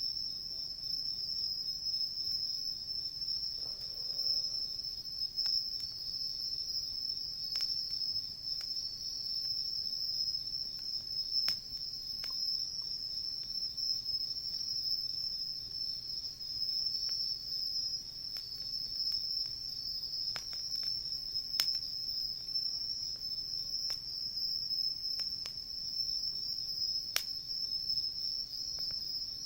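Crickets and other insects singing in a steady, continuous high trill, with scattered sharp pops and crackles from a wood campfire.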